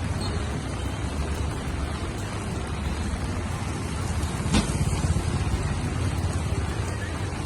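Strong rain pouring steadily, with a low rumble underneath. There is one sharp knock about halfway through.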